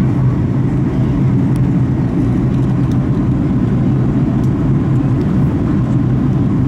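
Steady cabin noise inside a Boeing 737 MAX 8 descending to land: its CFM LEAP-1B engines and the airflow give a constant low rumble with a steady drone.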